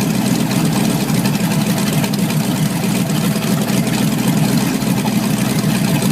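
A boat's port engine idling steadily after start-up, an even low running note with no change in speed.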